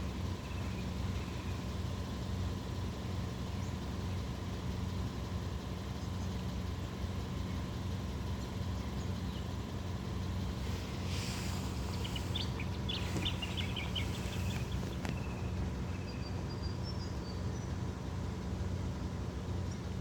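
Steady low engine hum, like a vehicle idling, with a few faint high bird chirps partway through.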